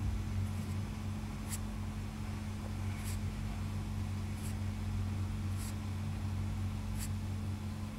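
Steady low electrical hum, with faint light ticks about every second and a half.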